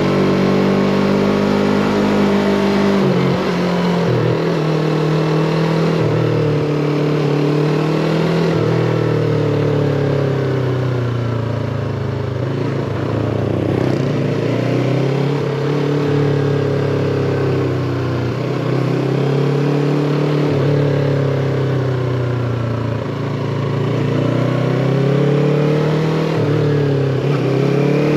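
Yamaha MT-25 motorcycle's parallel-twin engine running under way, its revs climbing and easing off again and again.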